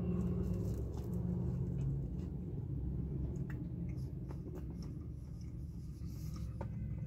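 A person chewing a bite of chicken sandwich, with faint wet clicks and crackles over a steady low hum.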